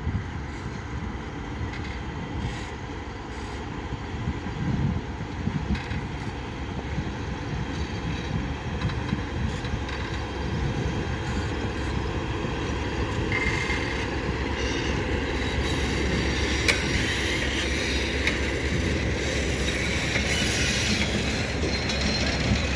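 Freight train passing on the rails, its wagons' wheels rumbling and clattering, growing louder, with a high steady wheel squeal joining about halfway through.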